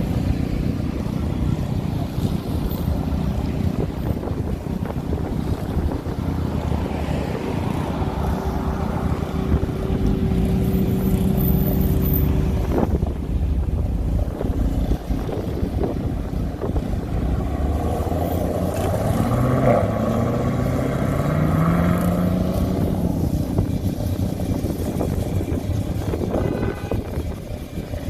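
Hot rod and custom car engines rumbling as cars drive past one after another. Two of them accelerate away, about ten seconds in and again near twenty seconds, each with a rising engine note.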